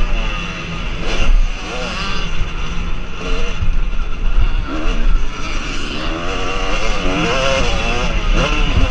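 Several motocross bikes running at once, their engines revving up and falling back again and again, the overlapping pitches rising and dropping.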